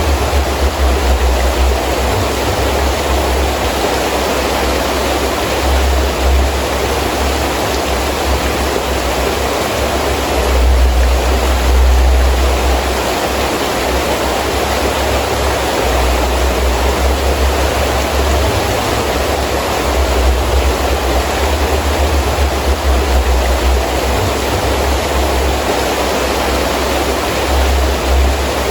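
Heavy rain falling steadily with gusting wind. The wind comes through as a deep, uneven rush that swells strongest about eleven seconds in.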